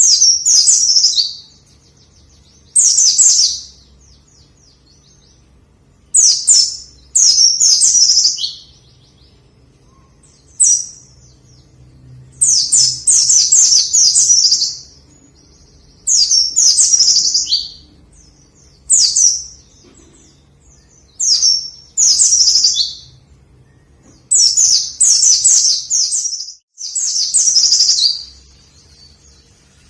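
White-eye (pleci) singing vigorously: rapid, high chirping phrases of a second or two each, repeated over and over with short pauses between them.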